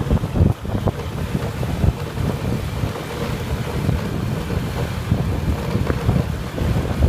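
Wind buffeting the microphone, a heavy, uneven rumble of the kind picked up while riding a motorbike.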